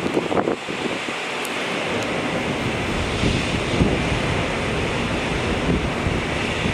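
Steady, even rush of a Boeing 787-9's jet engines heard from afar on the takeoff run, with wind buffeting the microphone.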